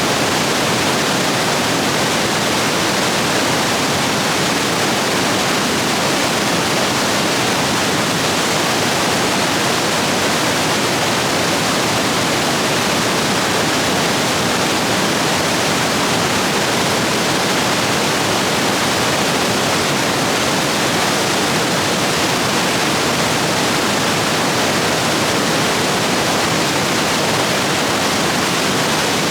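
Rapids rushing over rocks in a stream swollen by heavy rain, a steady, loud, unbroken rush of water.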